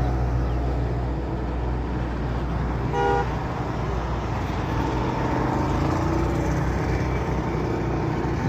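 Steady road and engine noise of a moving car, with one short honk of a vehicle horn about three seconds in.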